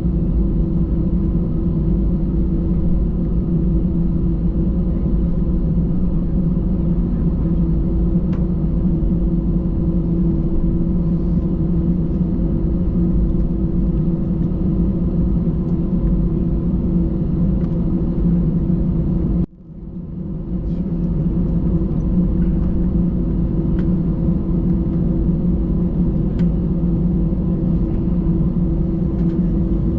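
Airbus A320 cabin noise heard from an economy seat: a steady low drone with a constant hum. About two-thirds of the way through, the sound drops out abruptly and then swells back over a second or so.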